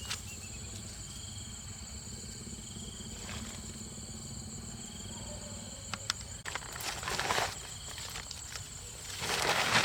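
Outdoor ambience with a steady high-pitched insect drone and a faint wavering call, broken by two louder rustling bursts about seven and nine and a half seconds in.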